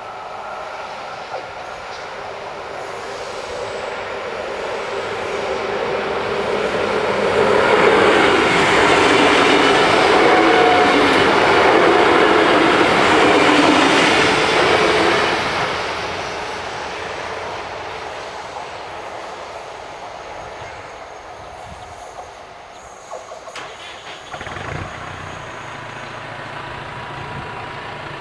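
SJ X40 double-deck electric multiple unit passing over a level crossing: the rush of wheels on rails swells to a loud peak for about eight seconds from a quarter of the way in, then fades. Near the end come a few short knocks, then the low hum of an idling engine.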